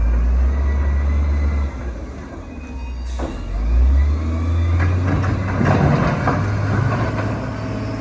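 Heavy earth-moving machine's diesel engine running with a deep drone that shifts in pitch as it works. A sharp knock comes about three seconds in, and a burst of clattering and scraping follows from about five to seven seconds.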